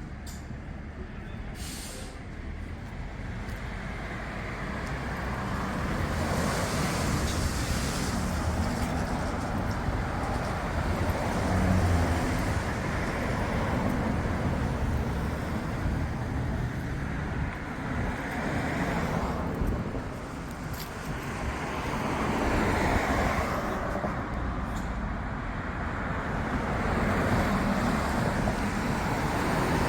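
HMT 5911 tractor's diesel engine running as it drives, growing louder over the first several seconds, with road and tyre noise.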